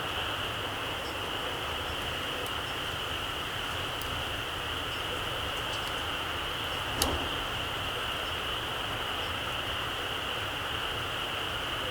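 Small wood campfire burning low on its embers: a few faint crackles and one sharp pop about seven seconds in, over a steady hiss.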